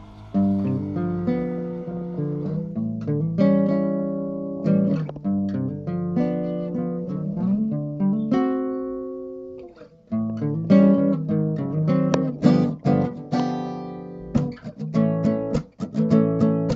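Acoustic guitar playing an intro without singing. Picked chords ring and fade, one chord is left to die away a little past halfway, then quicker strummed chords follow.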